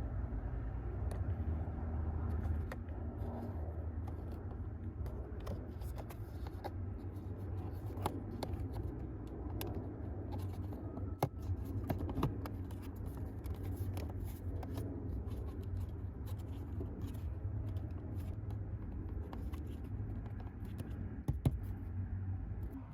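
Hands working the cabin air filter and its plastic housing behind the glove box of a Toyota RAV4: scattered light plastic clicks, scrapes and rustles, with a couple of sharper clicks, over a steady low rumble.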